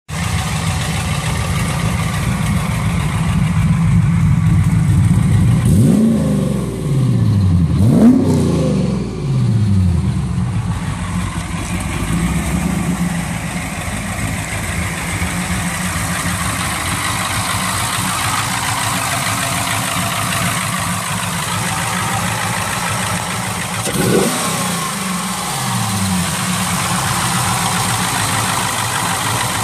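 Chevrolet Camaro SS V8 idling steadily. The throttle is blipped twice, about six and eight seconds in, the second rev the louder, and once more briefly later on.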